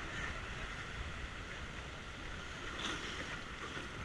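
Rushing river water, a steady even hiss of fast-flowing current around a river raft.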